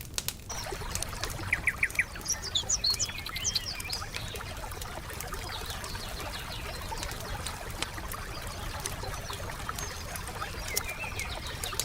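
Wood fire crackling with scattered pops over a steady hiss, while songbirds chirp. There is a quick run of repeated chirps between about one and a half and three and a half seconds in, and a few short calls later.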